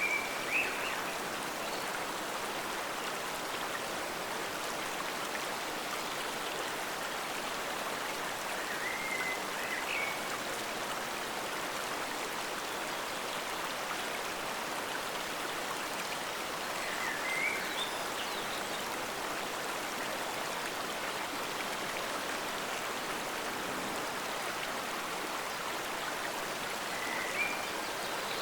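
Forest stream flowing steadily, with a few short high chirps heard four times over its rush.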